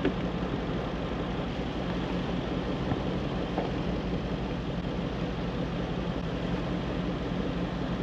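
A 4x4's engine running steadily at low revs, an even hum with no revving, and a couple of light knocks about three seconds in.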